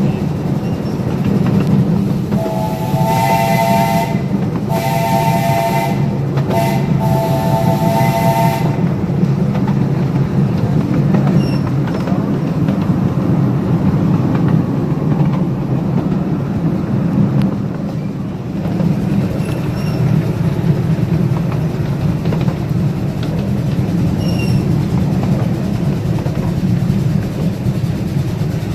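Live steam locomotive's chime whistle sounding two long blasts, a short one and a long one, over the steady running noise of the train on the track. This is the standard grade-crossing whistle signal.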